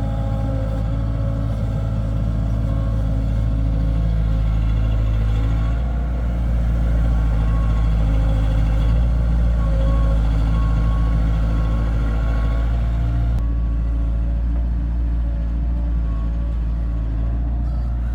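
Heavy diesel engine of construction machinery running steadily: a deep, continuous rumble with a steady pitched drone over it. The sound shifts slightly about six seconds in and again about thirteen seconds in.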